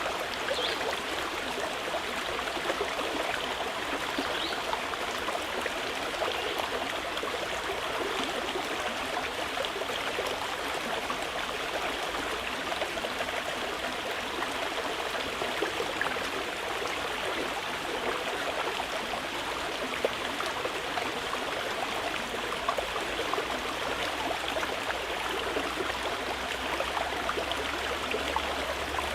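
Mountain river running steadily over its bed, an even rush of water.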